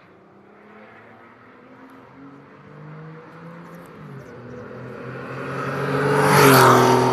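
Red Porsche 911's air-cooled flat-six engine approaching at speed, its note growing louder. Near the end it passes close by at its loudest, the pitch dropping as it goes past.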